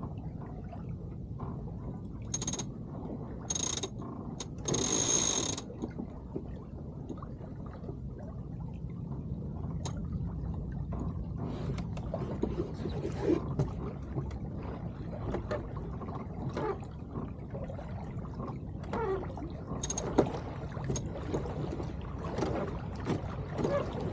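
Water trickling and lapping along the hull of a small keelboat ghosting in light wind, with a steady low rumble. A few short, sharp metallic rattles of deck gear come between two and five seconds in.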